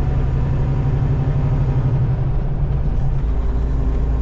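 Semi-truck's diesel engine and road noise heard from inside the cab while cruising, a steady low rumble; the engine note shifts about three seconds in.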